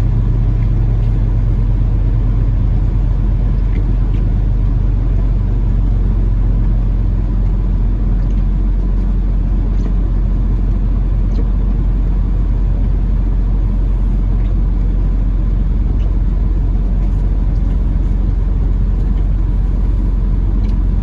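Peterbilt 579 semi truck's diesel engine running low and steady, heard from inside the cab while the truck is maneuvered at low speed into a parking spot.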